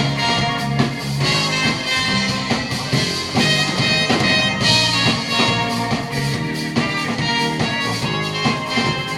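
Band playing an instrumental passage of a pop song in concert, without vocals.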